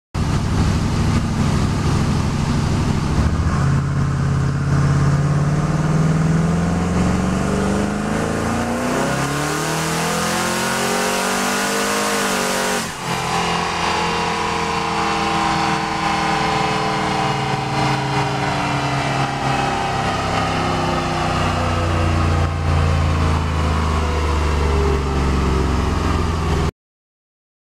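Twin-turbocharged 426-cubic-inch Hemi V8 of a Jeep Grand Cherokee SRT8 on a chassis dyno, pulling at wide-open throttle with its pitch climbing steadily for about 13 seconds. It then lifts off abruptly and winds down as the rollers slow, and the sound cuts off suddenly near the end.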